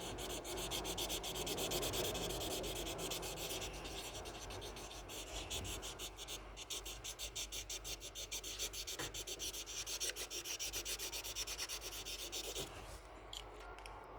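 Scratchy rubbing on paper: a steady scrubbing at first, then quick back-and-forth strokes, several a second, that stop near the end.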